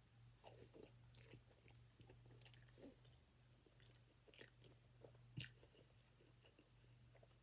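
Faint chewing of a chicken nugget: soft, irregular mouth clicks and smacks, with one sharper click about five seconds in, over a low steady hum.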